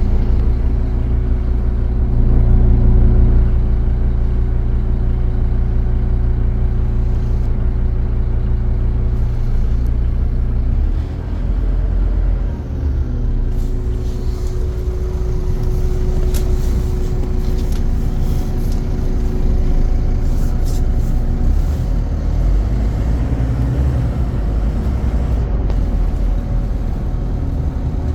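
Scania CN270UB city bus engine running with a steady low drone and a constant whine above it. About eleven seconds in the engine note dips and changes, then carries on, with scattered clicks and rattles after that.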